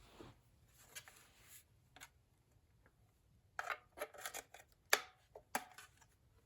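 Plastic clicks and light knocks from a cordless phone handset being handled, a few scattered at first, then a quick cluster of sharper clicks about halfway through.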